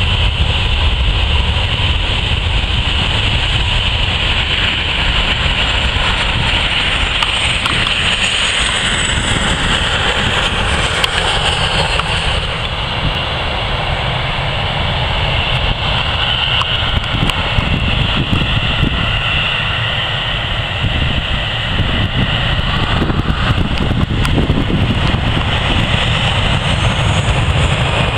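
Jet airliner engines: a steady rumble with a high turbine whine that falls in pitch about a third of the way through. Wind buffets the microphone throughout.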